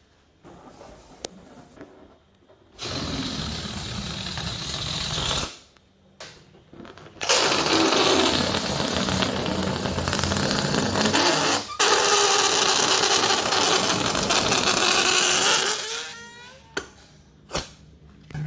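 Air rushing through the necks of rubber party balloons: a hiss of about two and a half seconds, then a longer, louder rush of about eight seconds that breaks into a wavering squeal near the end.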